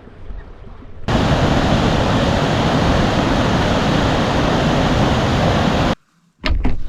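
Loud, steady rushing noise, even from deep to high pitches, starting abruptly about a second in and cutting off abruptly near the end. A few sharp knocks follow.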